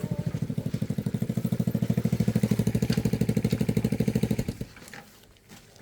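Motorbike engine running with an even, rapid putter that grows a little louder, then cuts off abruptly about four and a half seconds in.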